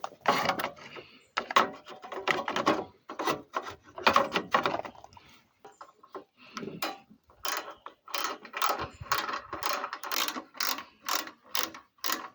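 Ratchet wrench clicking in repeated back-and-forth strokes as a screw is driven home. The strokes become quicker and evenly spaced in the second half.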